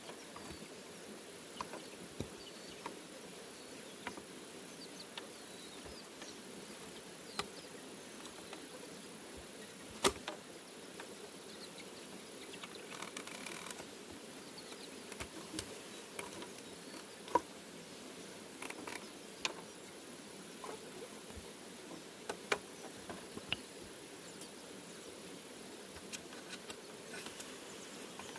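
Insects buzzing and chirring steadily, with a thin high whine throughout, while scattered light taps and clicks sound every second or two. Sharper knocks come about ten and seventeen seconds in.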